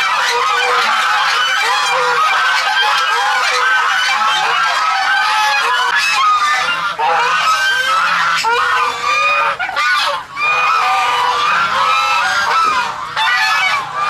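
A flock of birds calling all at once: many short calls overlap into a loud, continuous din with no break.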